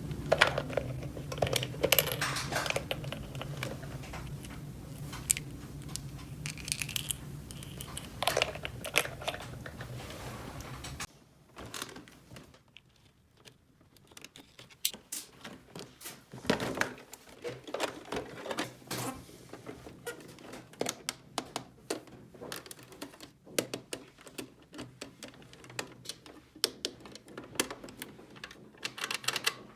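Small plastic toy pieces being handled: irregular light clicks, taps and some crinkling. A low steady hum sits under the first part and stops abruptly after about eleven seconds.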